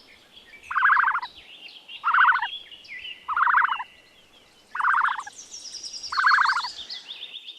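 Ostrich calling: five short buzzy calls about a second and a bit apart, with smaller birds chirping higher behind them.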